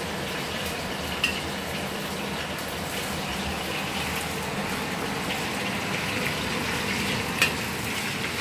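Salmon frying in hot oil in a wok: a steady sizzle, with a metal spatula clicking against the wok twice.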